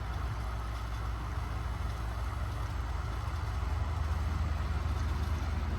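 Semi truck's diesel engine heard from inside the cab, a steady low drone that grows a little louder near the end.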